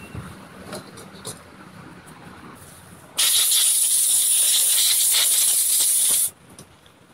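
A loud steady hiss that starts suddenly about three seconds in, runs for about three seconds and cuts off suddenly. A few faint clicks and knocks come before it.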